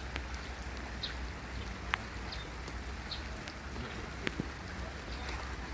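Rain falling steadily, with a few sharp taps of drops, the clearest about two seconds in and again past four seconds.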